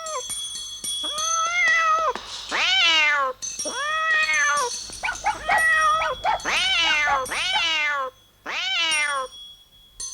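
A cat meowing over and over, about eight drawn-out meows that rise and fall in pitch, several sliding downward at the end, over light tinkling music with high bell-like notes.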